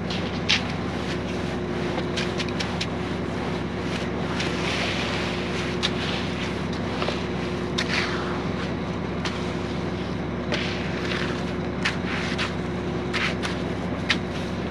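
Concrete mixer truck's engine running steadily, with scattered sharp clicks and knocks over it.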